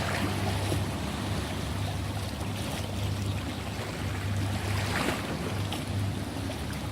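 Ocean waves washing in a steady wash of surf, with a louder surge about five seconds in. Under it runs a steady low hum.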